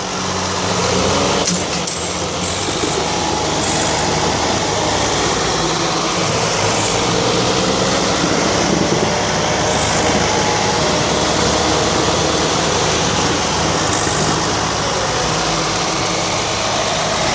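Tractor engine running steadily under load, straining against another tractor in a tochan tug-of-war.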